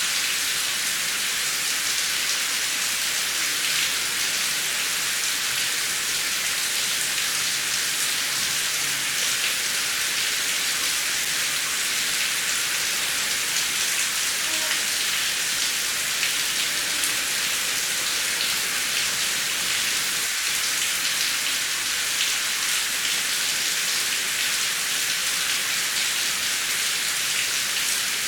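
Heavy rain falling steadily, a dense even hiss with fine drop patter and no thunder.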